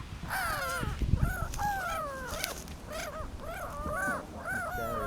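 Several birds calling over one another, yelling at each other in a quick run of short cries that bend up and down in pitch.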